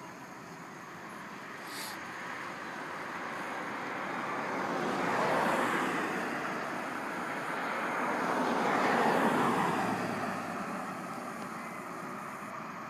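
Two road vehicles passing one after the other, each a rushing noise that swells and fades over a few seconds, over steady traffic noise.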